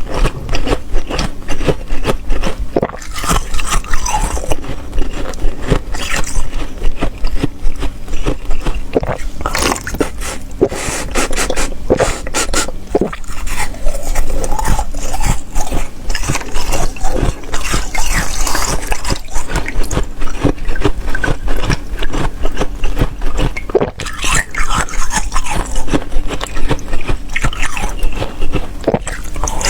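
Ice being bitten and chewed close to the microphone: a dense, continuous run of crunches and crackles.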